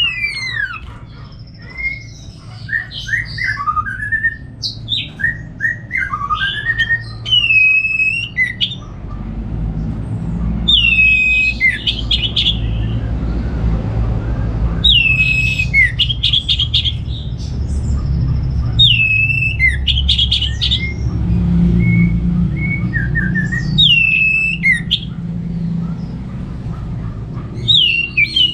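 Orange-headed thrush singing, varied whistled and chattering phrases repeated every few seconds, each with a falling note then a quick run of notes. A steady low rumble runs underneath from about a third of the way in.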